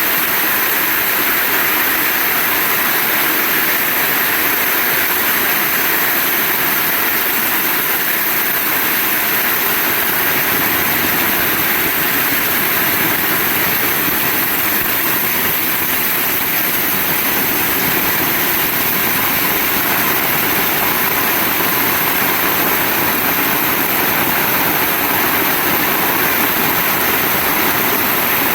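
Heavy rain falling steadily: a constant, even downpour with no breaks.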